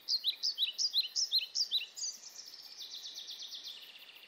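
Songbird singing: quick, repeated high chirps, about five a second, giving way after about two seconds to a quieter, faster trill, over a faint background hiss.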